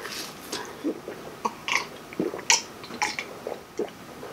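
Close-up wet chewing and lip smacking of a person eating a mouthful of food, in short irregular smacks.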